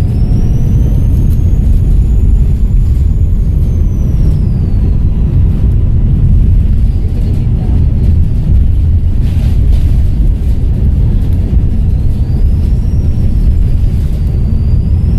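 Volvo B7RLE bus's six-cylinder turbodiesel engine running with a loud low rumble. Its turbocharger whistles high, the pitch rising for a couple of seconds as the engine pulls and falling away, then rising and falling again twice near the end. A brief hiss comes about nine seconds in.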